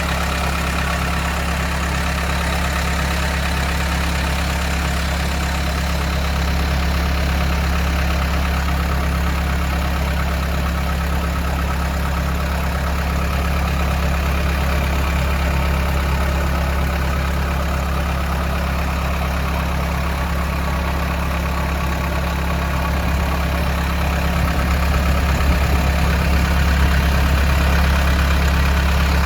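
CASE 445 skid steer's diesel engine idling steadily, getting a little louder near the end.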